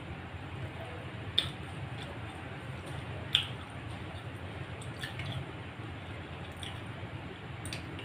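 A person chewing a mouthful of rice and fried fish eaten by hand, with wet squishing mouth sounds and a few sharp smacking clicks, the loudest about one and a half and three and a half seconds in.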